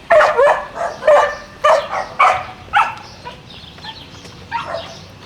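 Dog barking repeatedly, about two barks a second, pausing for a moment after about three seconds before barking again near the end.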